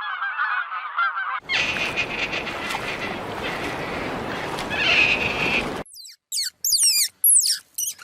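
A flock of birds calling in a dense chatter, likely geese honking, cut off abruptly about a second and a half in by a loud, noisy stretch, which stops suddenly near the end and gives way to a run of sharp, high, falling squeaks.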